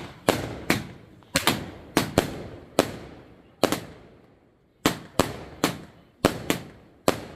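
Fireworks finale going off: a rapid, irregular string of about fifteen sharp bangs, some in quick pairs, each trailing off with an echo.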